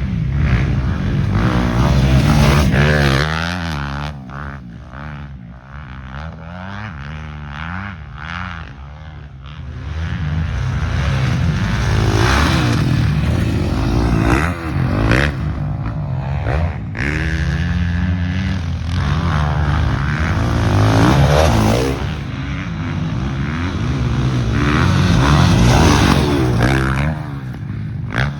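Motocross dirt bikes racing, engines revving up and down through the gears as they pass. The sound dips for a few seconds early on, then builds back up.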